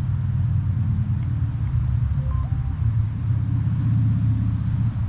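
Garden tractor engine idling steadily, a low even rumble.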